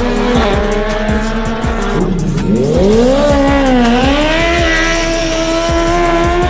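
Sport motorcycle engine at high revs, its pitch falling about two seconds in, climbing, dipping again near four seconds and climbing again as it works through the gears. Underneath runs background hip-hop music with a steady kick-drum beat.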